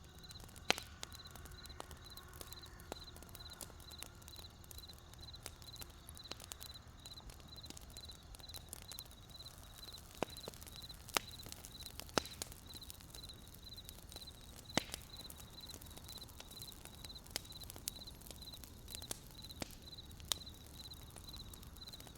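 Wood campfire crackling, with sharp pops scattered through, the loudest about eleven and fifteen seconds in. Behind it a cricket chirps steadily in an even, repeating high pulse.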